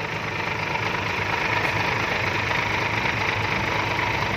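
Heavy diesel engine running steadily at a fast idle, getting a little louder over the first second or so and then holding even.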